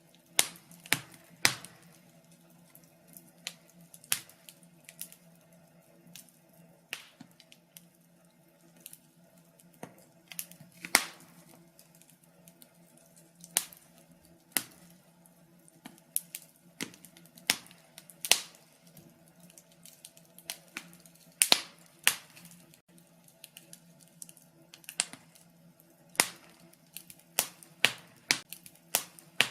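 Wood fire crackling in a fireplace: irregular sharp pops and snaps, sometimes single and sometimes in quick clusters, over a faint steady low hum.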